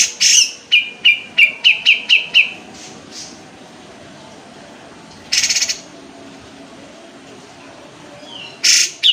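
Sooty-headed bulbul singing: a harsh opening note, then a quick run of about eight clear, even notes, followed by two short rasping bursts, one about halfway through and one near the end.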